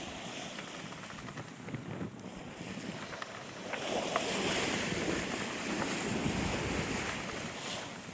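Sailboat under way at sea: water rushing and splashing along the hull, with wind on the microphone and small clicks. Around the middle a louder rush of water swells up and lasts about four seconds before it eases off.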